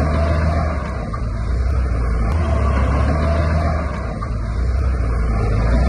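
Diesel engine of heavy construction machinery running steadily under load, its loudness dipping briefly about a second in and again around four seconds.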